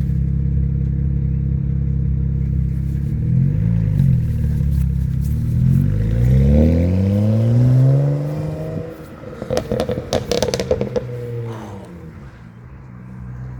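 Tuned BMW 335i turbocharged straight-six revved from idle: a quick blip, then a longer climbing rev. When the throttle snaps shut it gives a rapid string of exhaust pops and crackles on the overrun, from the tune, then drops back to idle.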